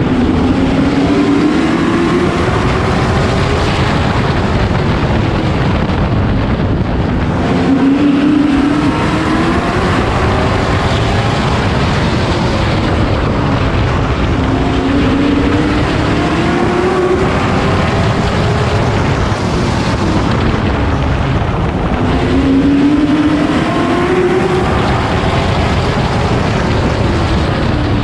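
Race truck engine heard on board at racing speed, its pitch climbing under throttle and dropping off again several times, in a repeating lap rhythm of accelerating and lifting.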